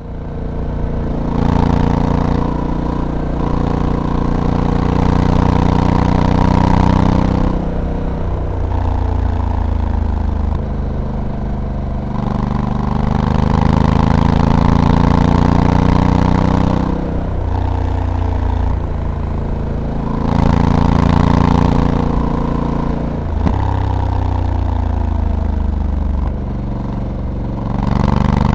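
Honda Africa Twin DCT's parallel-twin engine pulling along a twisty road, its pitch climbing under throttle and falling back several times as the bike speeds up and slows, with changes of gear between.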